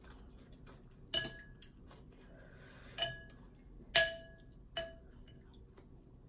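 Eating utensils clinking against a soup bowl four times, each strike ringing briefly; the third is the loudest.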